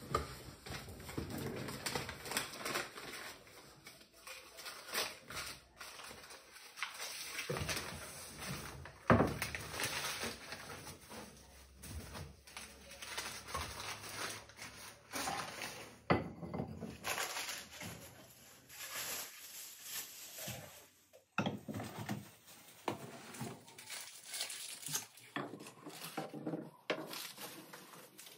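Household objects being handled and set down while unpacking and arranging belongings: a run of irregular clicks, light knocks and rustling.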